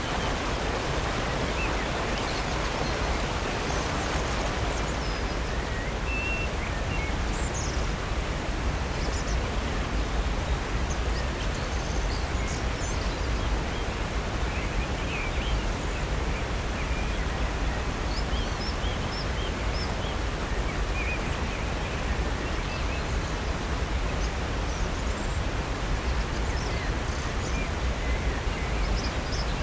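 Steady rush of water from Upper North Falls on Silver Creek, with short bird chirps scattered high above it.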